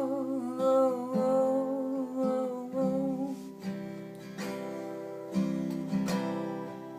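Seagull acoustic guitar strummed while a man's voice holds the last sung note, which fades out about halfway through. The guitar then plays on alone between verses, with a fresh chord strummed roughly once a second.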